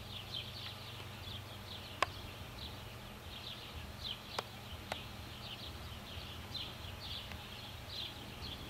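Small birds chirping in quick, high, repeated notes over a steady low hum, with three sharp clicks: one about two seconds in and two more close together a little before five seconds.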